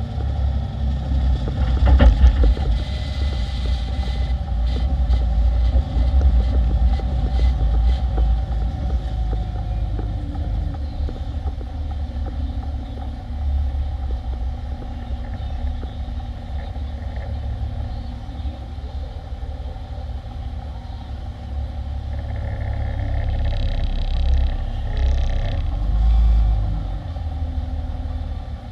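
Peterbilt 348 plow truck's diesel engine running with a steady low rumble. There is a sharp clunk about two seconds in, and a louder, noisier stretch near the end.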